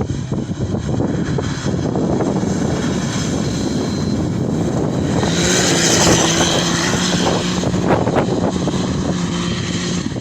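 A motor droning at a steady, unchanging pitch over a rough rumble, growing louder about halfway through.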